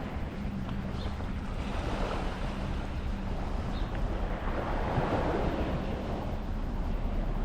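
Waves washing onto a beach, the wash swelling about five seconds in, with wind rumbling on the microphone.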